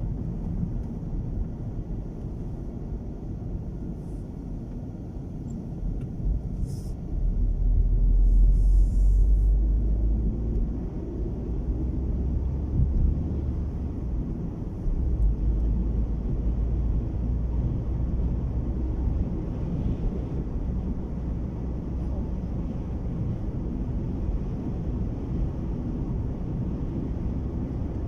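Road and wind noise inside a moving car's cabin while driving in strong wind: a steady low rumble that swells louder about seven to ten seconds in.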